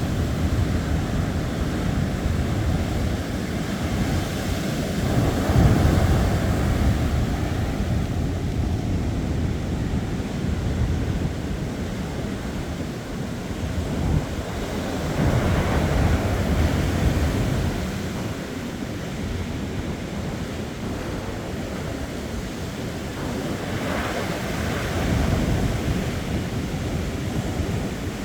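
Ocean surf washing in and out, swelling every several seconds, with wind buffeting the microphone.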